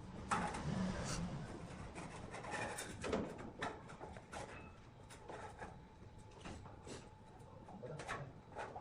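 Scattered knocks and scraping of wood being handled, with no saw running.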